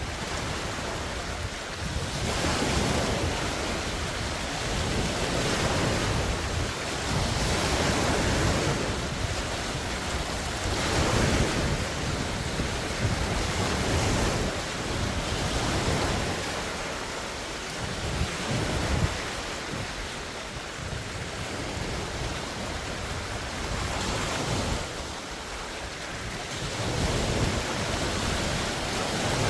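Large wind-driven waves breaking and washing on a lake shore, swelling and easing every few seconds, with gusting wind buffeting the microphone.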